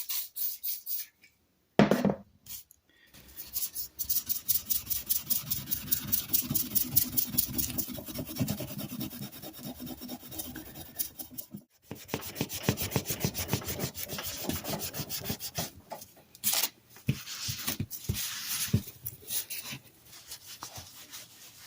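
Fine 4/0 steel wool with WD-40 being scrubbed back and forth over a hand plane's lever cap to clean off rust and grime, a quick, even scrubbing rhythm with a short break about halfway through.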